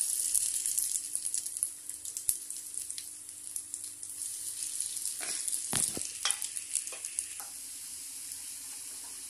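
Breadcrumb-coated potato nuggets sizzling as they are shallow-fried in a little hot oil in a nonstick frying pan. The sizzle starts suddenly as the first nugget goes in and is loudest for about the first second, then settles to a steady crackle. A few light knocks come around the middle as more nuggets are set down in the pan.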